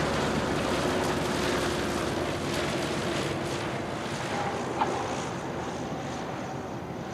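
Wind rushing on the microphone over the faint, steady drone of a Cirrus SR20's single piston engine, which fades away after landing.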